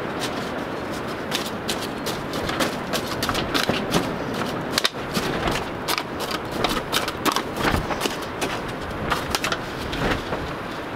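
Strong wind buffeting a small greenhouse: a steady rush of wind with many irregular sharp clicks and rattles through the middle.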